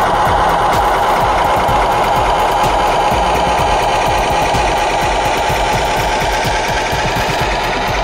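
Large-scale RC truck's diesel engine sound running steadily with a fast, even rattle as the truck creeps along slowly.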